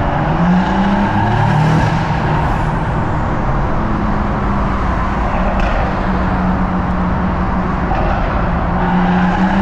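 BMW M140i's big-turbo 3.0-litre straight-six with a screamer-pipe exhaust, driven hard in a road tunnel. Its engine note climbs over the first couple of seconds, then settles into a steady drone over tyre and wind noise.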